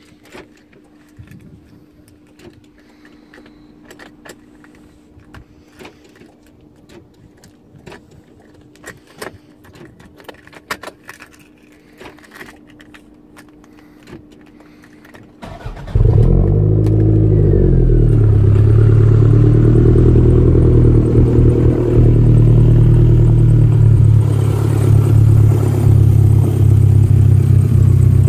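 Light clicks and rattles over a faint steady hum, then about sixteen seconds in the Toyota MR2 Mk2 Turbo's 2.0-litre 3S-GTE turbocharged four-cylinder starts. It flares briefly and settles into a steady idle.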